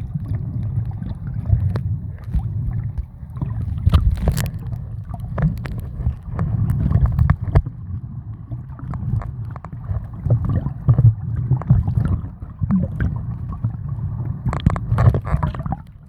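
Muffled, churning water noise: a steady low rumble with irregular crackles and knocks, typical of a camera recording in the sea.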